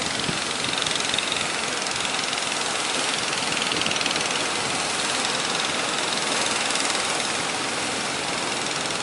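Steady rushing noise of rough surf and strong onshore wind, unbroken throughout.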